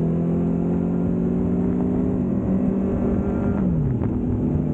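Motorcycle engine running with a steady low note, some of its higher tones sliding down in pitch about two seconds in and again near four seconds, over steady low rumble.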